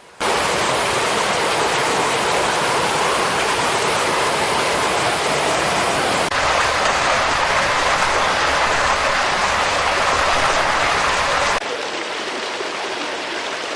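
Loud, steady rush of fast-flowing floodwater. About eleven and a half seconds in it cuts abruptly to a quieter, thinner rush of water with less low rumble.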